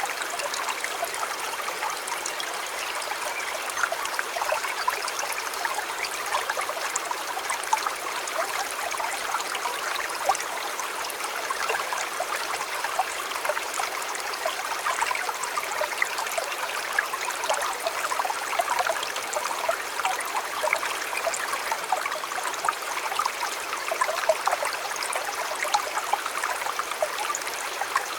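Shallow stream or river flowing steadily, water babbling and trickling over stones with many small splashes.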